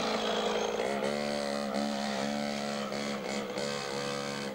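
Small Beta 50cc two-stroke minitrial motorcycle running, its engine pitch dropping and rising several times as the throttle is eased and opened.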